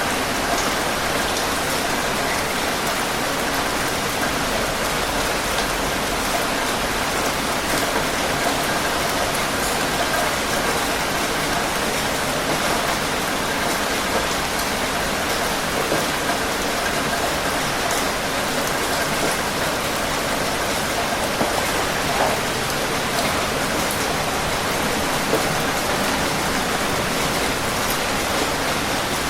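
Steady heavy rain falling, a constant hiss with scattered individual drops ticking.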